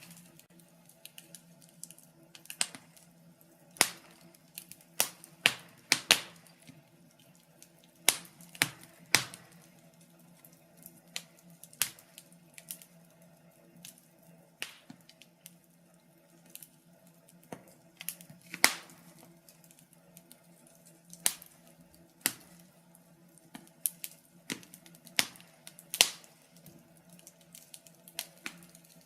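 Wood fire in a fireplace crackling, with irregular sharp pops and snaps every second or so, a few much louder than the rest. A faint steady hum runs underneath.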